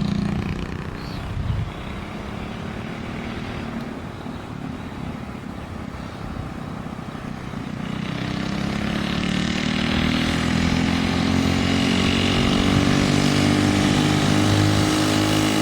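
Small 5 hp Briggs & Stratton single-cylinder engine running under way, fainter at first, then about halfway through growing louder as its pitch climbs steadily while it accelerates.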